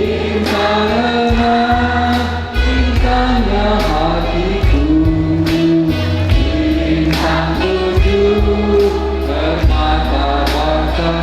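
Choir singing in several voices over a backing with a deep bass line and a steady beat.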